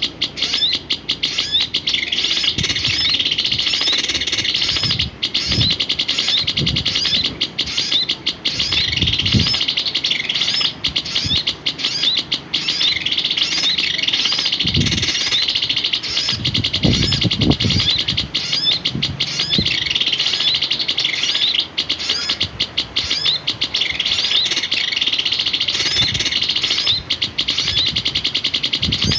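Small songbird chirping over and over in quick, high, short notes, with a few soft low thumps in between.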